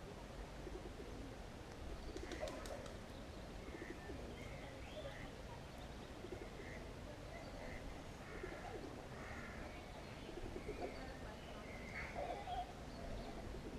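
Faint birdsong: many short, scattered high chirps from several birds, with a few lower calls among them over a steady background hum.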